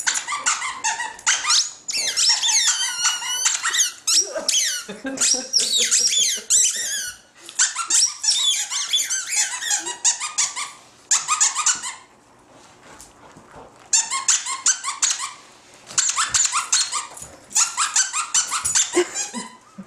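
Rubber squeaky dog toy squeezed over and over in rapid runs of high-pitched squeaks, pausing briefly about twelve seconds in.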